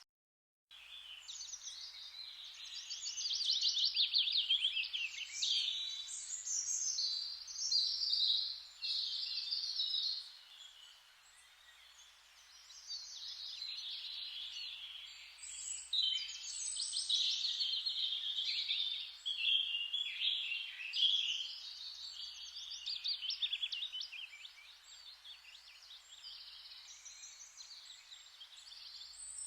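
Forest ambience of many songbirds singing at once, with rapid trills and chirps over a soft steady hiss. The sound drops out completely for under a second at the very start.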